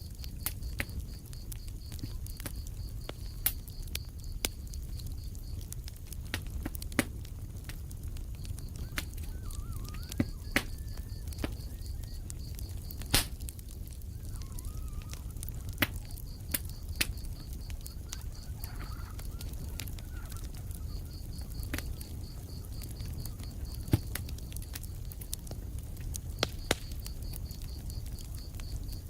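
Wood fire crackling in a fireplace: irregular sharp pops and snaps, a few much louder than the rest, over a low steady rumble of the burning. A fast high trill comes and goes in several stretches behind it.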